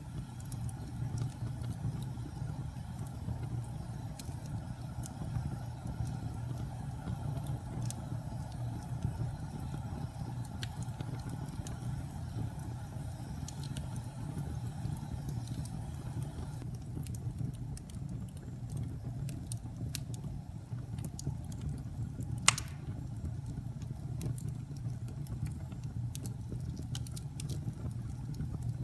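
Wood fire burning in a fireplace: a steady low sound of the flames with scattered small crackles and one sharp, louder pop about three-quarters of the way through.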